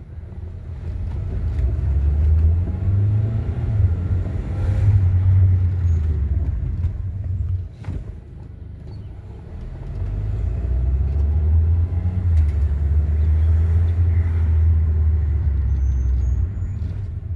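Kia Soul's brakes grinding as the car rolls and is slowed, a low rumbling grind heard twice in long stretches with a pitch that slides up and down.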